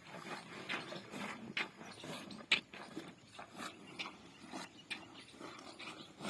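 Buffaloes eating feed: a run of irregular crunching clicks and knocks, with one sharper knock about two and a half seconds in.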